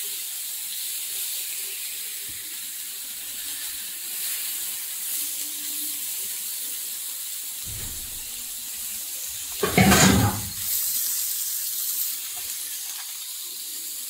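Masala-coated slices of elephant foot yam shallow-frying on a tawa: a steady sizzle, with a brief loud clatter about two-thirds of the way in.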